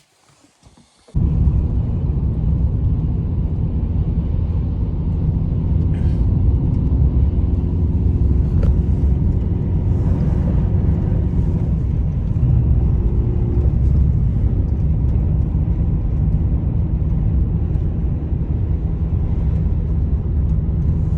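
Strong blizzard wind buffeting the microphone: a loud, steady low rumble that starts abruptly about a second in.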